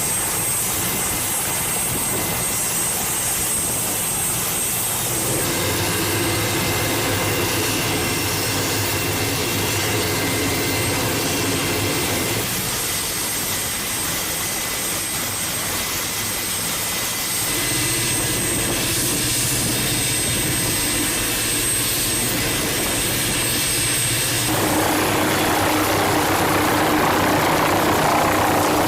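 Aircraft engines running with a steady jet-like noise and steady tones, changing abruptly several times.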